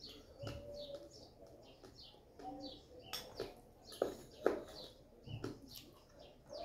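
Small birds chirping faintly in the background, many short chirps falling in pitch. A few sharp clicks come about three to four and a half seconds in.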